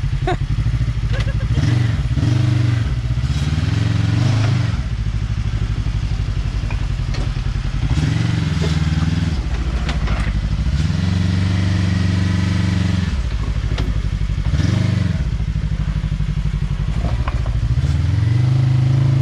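Kawasaki KRX side-by-side's engine revving in repeated bursts while crawling over rocks. The engine note swells and falls back several times over a steady running note.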